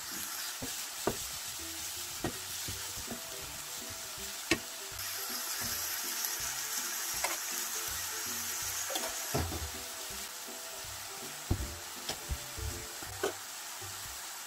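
Ground pork and shredded vegetables sizzling as they stir-fry in a nonstick frying pan, with a wooden spatula scraping and now and then knocking against the pan. The sizzle is louder for a few seconds in the middle.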